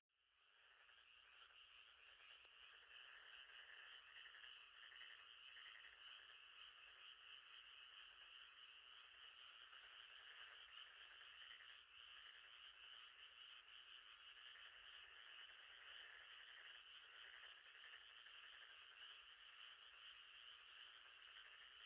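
Faint, steady chorus of frogs calling at night, a dense unbroken trill that fades back in just after the start.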